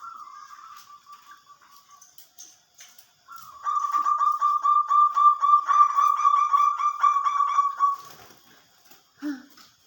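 Zebra dove (perkutut) singing: a soft drawn-out coo, then from about three seconds in a loud rapid run of pulsed coos lasting about five seconds.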